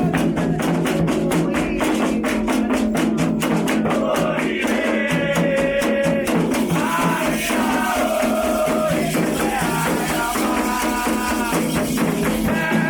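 Candomblé ritual music: fast, even percussion strokes with a drum underneath, and singing that comes in about four seconds in.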